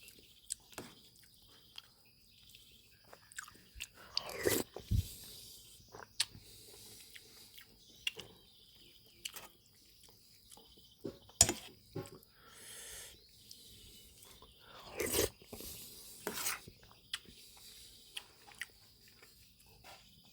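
Close-miked eating sounds of a person chewing and crunching, with scattered small clicks and a few louder moments about 4, 11 and 15 to 16 seconds in.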